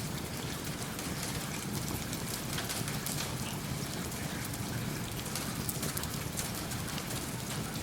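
Steady rain with a wood fire crackling in a fireplace: an even hiss of rain with a low rumble beneath, and scattered sharp pops throughout.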